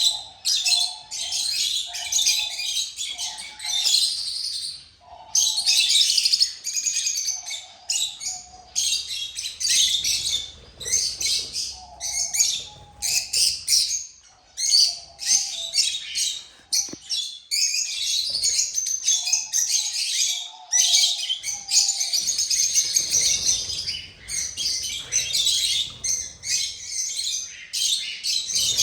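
Many small cage birds chirping and calling over one another in a dense, continuous chatter. A lower call repeats in short notes several times through it.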